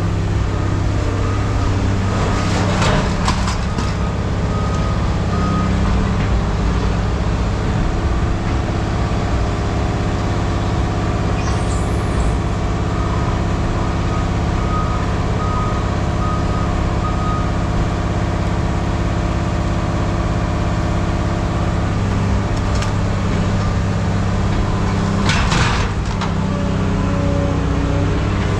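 Engine of a heavy scrap-yard vehicle running steadily, with a reversing alarm sounding a run of short beeps partway through. A couple of sharp clanks come near the start and near the end.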